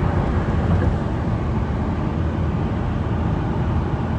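Steady road and engine noise inside a moving car's cabin: an even low rumble with no distinct events.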